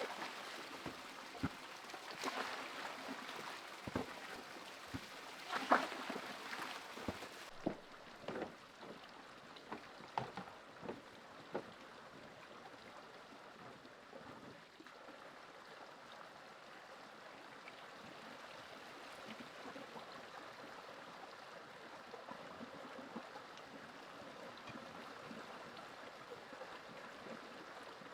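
Running water, with scattered sharp knocks through the first dozen seconds, then only a steady rush of water.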